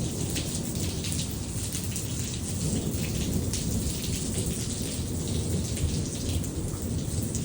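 Steady rain falling during a thunderstorm, drops tapping close by, with a low rumble of thunder underneath.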